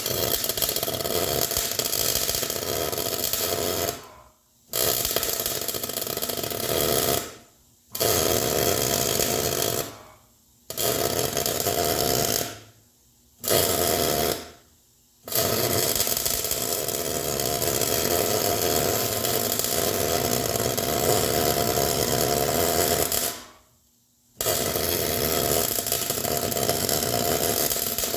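A hand-held power tool, most likely an angle grinder, run in about seven bursts. Each starts abruptly and winds down when released, with short gaps between; the longest burst lasts about eight seconds.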